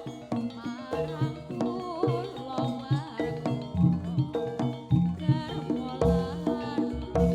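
A live Javanese gamelan-style percussion ensemble playing: frequent drum strokes with deep low drum hits, over ringing notes from tuned metal percussion and a wavering melodic line.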